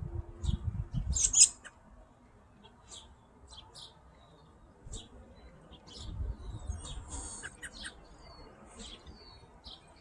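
Birds chirping: short, high chirps scattered through, the loudest a quick cluster about a second in. Beneath them a low rumble swells near the start and again around six seconds in.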